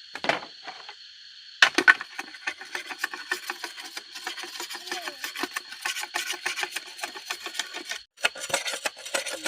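A dense run of small, dry cracks and clicks, like wood or plant stems snapping, starting about one and a half seconds in. A steady high hiss sits underneath.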